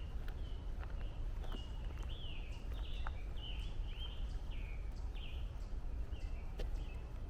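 A songbird calling a run of short, slurred notes, about two a second, which fades out about five and a half seconds in. Footsteps on the trail click now and then, over a steady low rumble.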